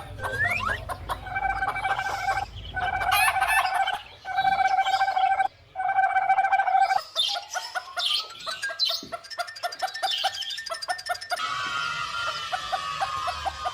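Chickens calling: a run of four long, level-pitched calls, then rapid pulsed clucking, then falling calls near the end.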